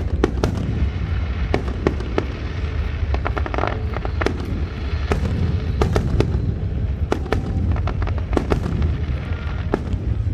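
Fireworks show going off: many sharp cracks and bangs at irregular intervals over a continuous low rumble of booms.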